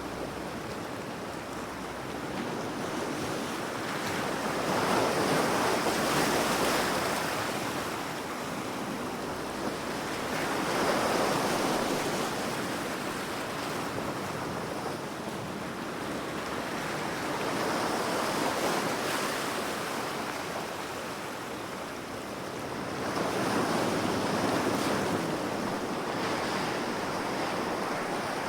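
Ocean waves breaking and washing in: a steady surf hiss that swells and fades about four times, roughly every six seconds.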